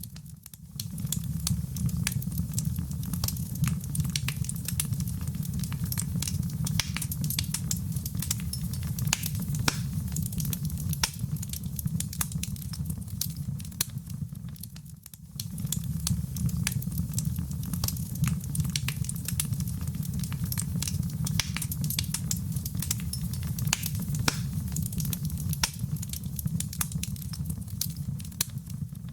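Wood fire burning in a fireplace: a steady low rumble of flames with dense, irregular crackles and pops. The sound briefly drops away twice, about half a second in and around halfway through.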